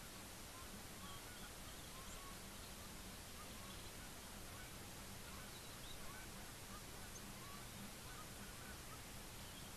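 Faint bird calls in the distance: short, scattered calls spread through the stretch, over a steady outdoor hiss and a faint low hum.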